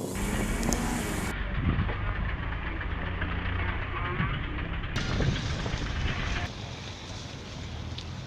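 Car engines running steadily at low revs as cars drive slowly out, with no hard revving.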